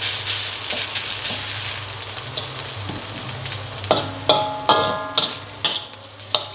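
Chopped aromatics and shrimp paste sizzling in a little oil in a metal wok as a spatula stirs and scrapes them, fried on low heat until they dry out. From about four seconds in, the spatula knocks against the wok several times, some knocks ringing briefly.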